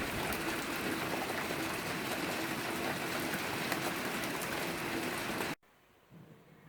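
Heavy rain pouring down, a dense steady hiss with many drops spattering. It cuts off abruptly about five and a half seconds in, leaving quiet background sound.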